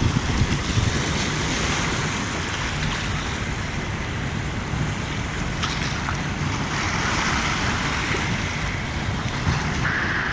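Heavy Black Sea surf rushing and breaking on the shore, a steady loud wash with a deep rumble, with wind buffeting the microphone.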